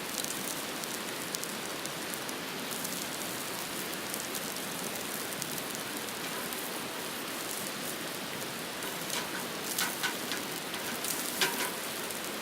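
Pork chops sizzling steadily on a grill over a wood fire, with a few light clicks near the end.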